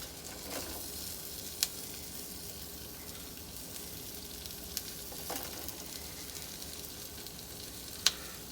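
Onions sautéing in butter in a pan, a steady sizzle, with two sharp clicks, one about a second and a half in and one near the end.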